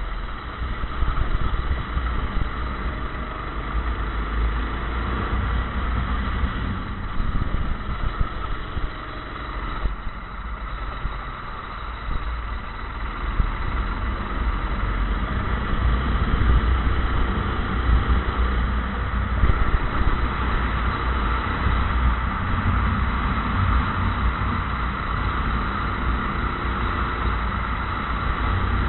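Racing kart engine running, its pitch rising and falling with speed, over a heavy, gusty low rumble.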